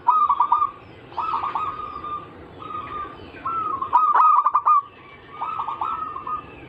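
Zebra doves (perkutut) cooing: repeated phrases, each a quick run of short staccato notes, following one another about every second, some loud and some fainter.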